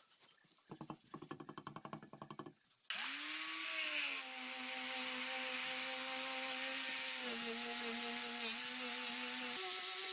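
A quick run of rapid rhythmic rasping strokes. Then, about three seconds in, a power tool's electric motor starts suddenly, spins up with a rising whine and runs at a steady pitch. The pitch dips slightly midway and steps higher near the end.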